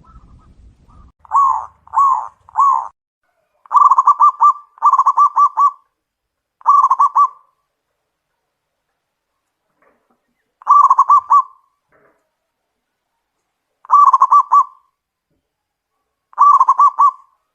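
Zebra dove (perkutut) cooing loudly in short phrases of rapid rolling coos, repeated every few seconds. It opens with three short notes, then gives longer trilled phrases with gaps between them.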